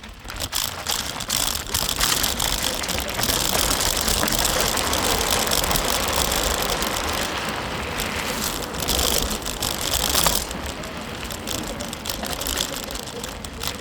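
Wind rushing over the microphone and tyres rattling on the trail as a bicycle coasts fast down a steep descent. It swells a couple of seconds in and eases near the end.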